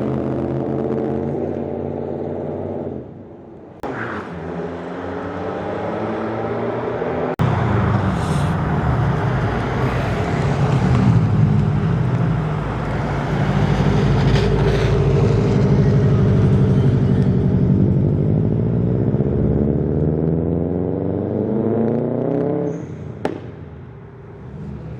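Car engines revving and pulling away, one after another. The loudest comes in suddenly about seven seconds in and runs until near the end, its pitch rising and falling before it fades.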